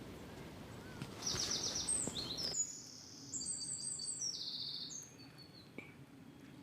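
A songbird singing: high, fast trills and short whistles in two phrases, one about a second in and another around four seconds in, over a low outdoor background.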